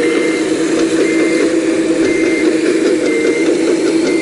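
Full-size excavator's diesel engine running steadily, with a high-pitched alarm beeping about once a second.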